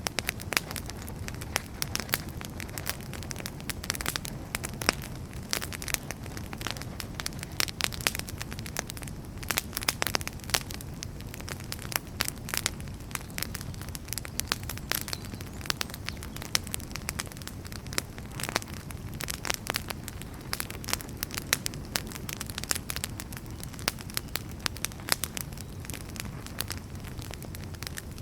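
Wood fire burning, with frequent irregular crackles and sharp pops over a low steady rumble.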